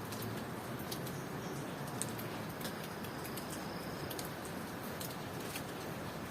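Steady rain falling, with scattered sharp drips ticking through it. Near the middle, a faint thin high call holds for about a second.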